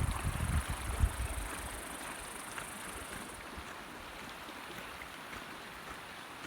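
Wind buffeting the microphone for the first second and a half, then a steady outdoor rush like wind or flowing water, with a high thin hiss that stops about three seconds in.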